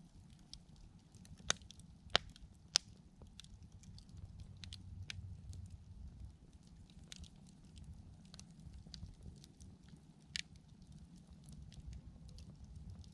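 Wood campfire crackling, with scattered sharp pops, the loudest three within the first three seconds and another about ten seconds in, over a faint low rumble.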